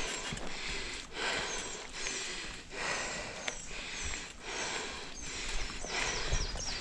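Mountain bike riding over a dirt trail: steady tyre and trail noise with the bike rattling and knocking over bumps. Short high squeaks come in runs, most densely near the end.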